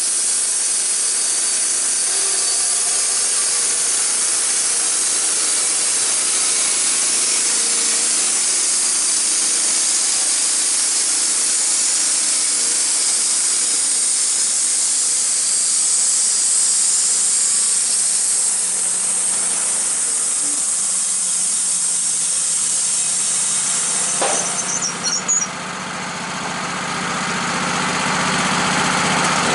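A machine running steadily with a loud hiss. About 24 seconds in it dips suddenly with a click, then settles into a lower, engine-like running sound.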